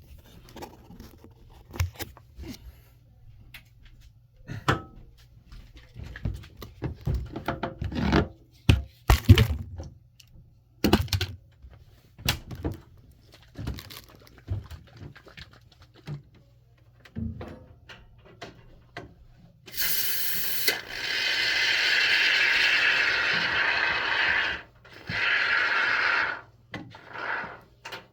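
Hand repair work: scattered knocks, thunks and scrapes of tools on building material, then about two-thirds of the way through a steady hissing, rasping noise that comes in several long stretches with short breaks.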